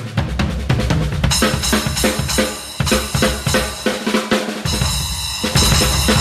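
Acoustic drum kit being played: fast strokes on bass drum and snare, with cymbals washing in about a second in and again near the end.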